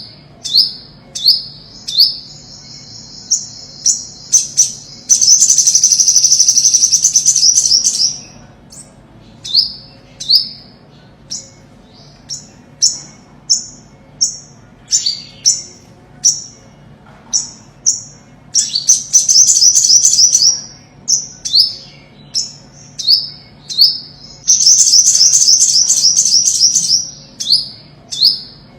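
Ornate (olive-backed) sunbird singing: sharp, high, upswept call notes repeated about once a second, broken three times by a fast trill lasting two to three seconds, near the start, in the middle and near the end.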